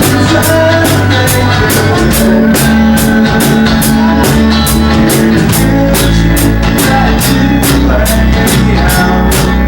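A rock band playing live, loud: a drum kit keeping a steady, fast beat under electric guitar and bass.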